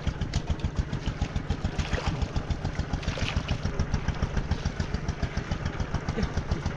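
Small engine running steadily at idle-like speed, with a rapid, even chugging beat over a constant low hum.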